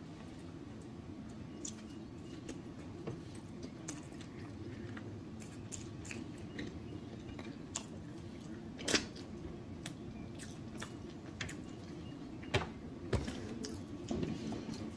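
Close-miked chewing and mouth smacking while eating shrimp from a shrimp boil, with many short sharp clicks. The loudest clicks come about nine seconds in and twice near thirteen seconds, over a low steady hum.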